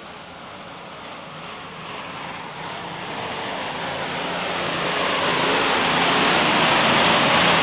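Four-turbo Case IH 7110 Magnum super stock pulling tractor running at full power on a pull, growing steadily louder throughout, with a high steady whine over the engine noise.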